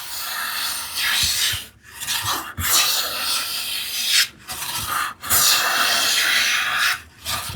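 Hand plane taking shavings off a board edge: about five long strokes, each a rasping hiss of the iron cutting wood, with short pauses between them.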